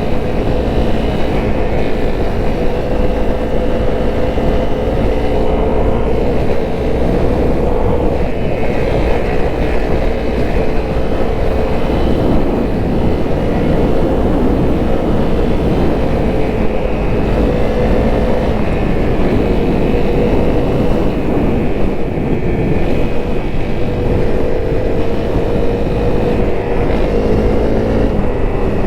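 Honda CRF250L's single-cylinder four-stroke engine running steadily under way, its note drifting gently up and down with the throttle.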